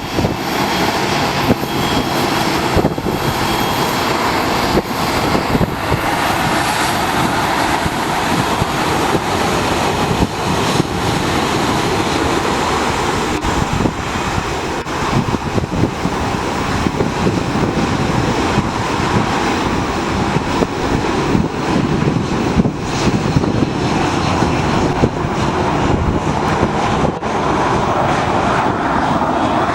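Boeing 737-700 BBJ's turbofan jet engines running with a steady, loud rush.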